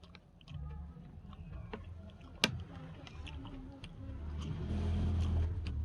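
Eating sounds: scattered small clicks and one sharp clink about two and a half seconds in, like a utensil knocking a plate. A low rumble with a hiss swells over the last second and a half.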